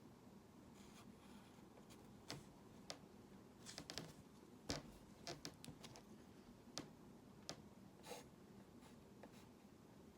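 A drawing tool making scattered short strokes and taps on its drawing surface, over faint room hiss. There are about a dozen brief scratches and clicks, the sharpest a little under five seconds in.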